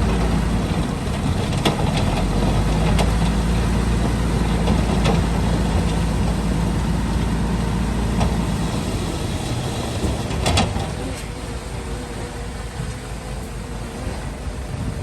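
Heavy diesel engine of earthmoving equipment running, a steady low drone with occasional sharp metal knocks. The low drone drops away about eight or nine seconds in and the sound grows quieter.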